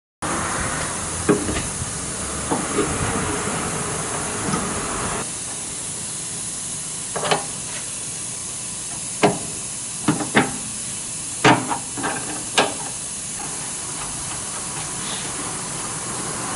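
Steady hiss with a scattering of sharp clicks and knocks.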